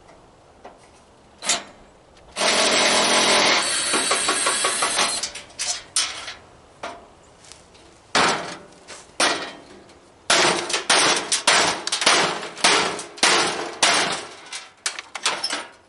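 Tools at work on a barbecue grill being dismantled. There is a single knock, then a steady harsh noise lasting about two and a half seconds, then a quick run of metal clanks and knocks.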